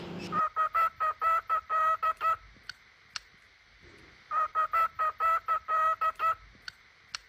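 Cockatiel whistling two runs of about ten quick staccato notes on one pitch, with a pause of about two seconds between them, echoing the 'do do do' tune sung to it. A few faint clicks fall in the gaps.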